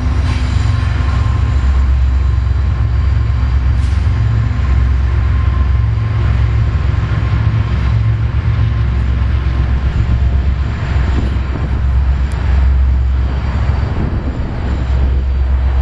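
Union Pacific double-stack container train rolling past, a steady low rumble.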